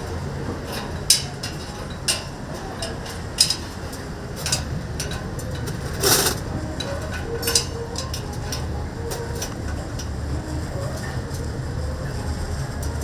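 Oak firewood fire in a chicken-roasting oven crackling, with irregular sharp pops, the loudest a longer one about six seconds in, over a steady low mechanical hum.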